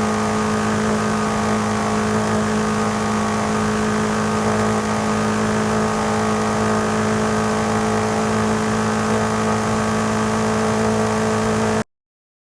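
BMW M5 CS's twin-turbo V8 engine running at a steady pitch as the car drives, then cutting off suddenly near the end.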